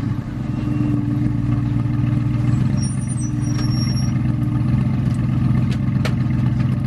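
Aston Martin GT4's V8 engine idling steadily as the car rolls to a stop in the pit lane, heard from inside the cockpit. A single sharp click comes near the end.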